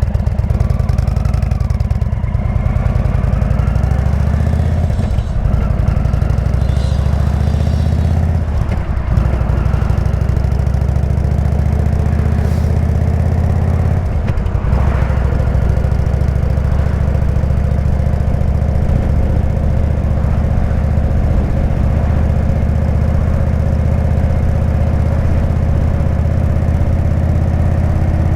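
Indian V-twin motorcycle with a Jekill & Hyde exhaust running on the road, a loud, steady, deep exhaust note. There are brief dips in the engine note about 9 and 14 seconds in, and the pitch climbs slowly in the second half.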